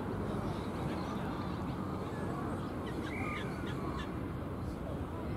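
A bird cawing a few times near the middle, over a steady low background rumble.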